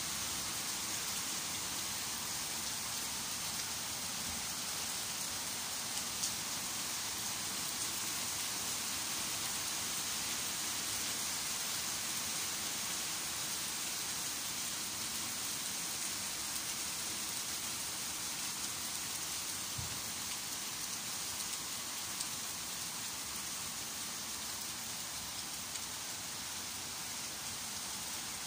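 Heavy summer rain pouring steadily onto tree leaves and wet ground: an even hiss, with a few single ticks standing out.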